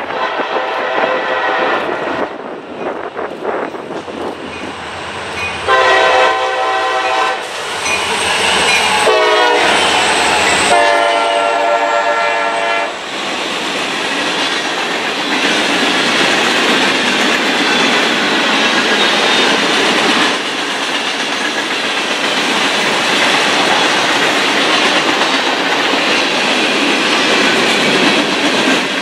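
Freight train passing: the locomotive's air horn sounds several blasts in the first half, one of them bending in pitch, then the cars roll by with a steady rumble and clatter of wheels on rail joints.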